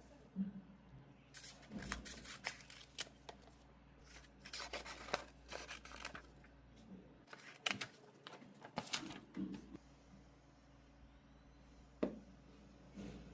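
Paper and craft materials being handled by hand: irregular rustling and tearing with small taps and clicks, a longer rustle around the middle and a sharp tap near the end.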